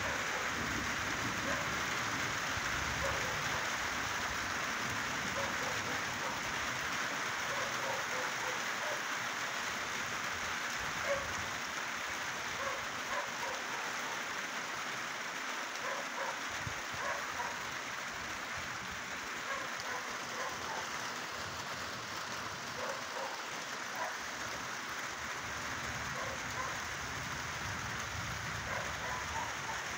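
Steady rain falling during a thunderstorm, with scattered small drips and splashes heard over the even hiss.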